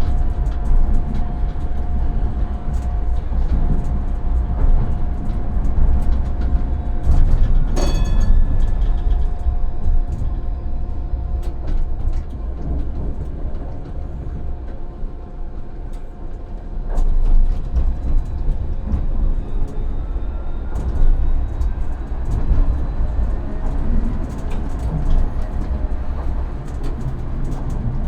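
Tram running along the track, heard from the driver's cab: a steady low rumble with a held whine that stops about seven seconds in. A short bright ring comes about eight seconds in, and a rising whine from about twenty seconds in.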